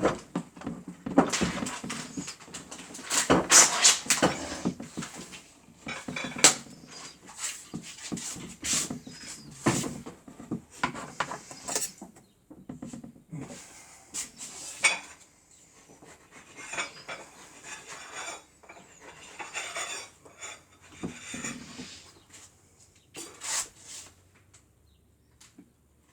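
Irregular clattering and clicking of small hard objects, like things knocking against dishes, loudest and busiest in the first several seconds, then scattered and fainter.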